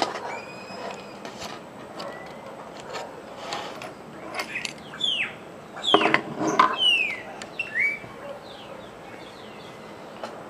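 Wild birds calling: a run of short calls that slide down in pitch, busiest and loudest in the middle, over a steady background hiss.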